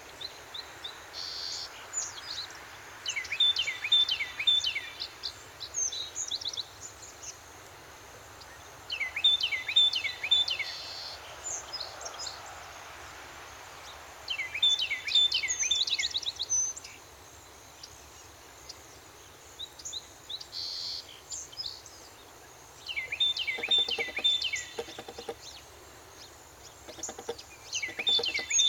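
A songbird repeating a short, rapid song of quick, high, downward-sweeping notes, each phrase lasting about two seconds and coming back about every five to six seconds, with fainter calls in between over steady outdoor background noise.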